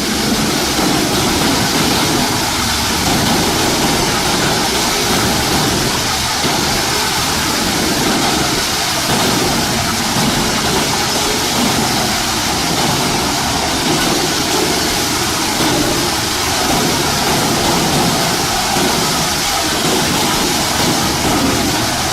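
Large industrial wood shredder running, a steady loud engine drone under a dense rushing noise of wood being ground up.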